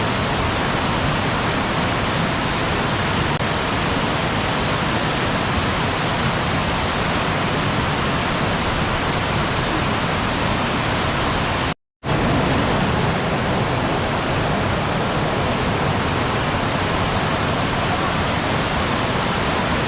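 Waterfall, a steady rushing of falling water with no music over it. About twelve seconds in it cuts out to silence for a moment, then resumes at once.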